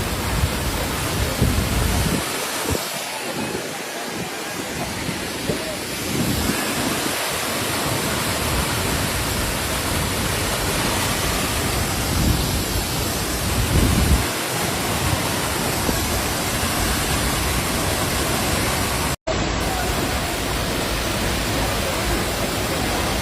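Waterfall in heavy flow, its water rushing in a loud, steady roar, with the current swollen and rising. The sound cuts out for a moment about nineteen seconds in.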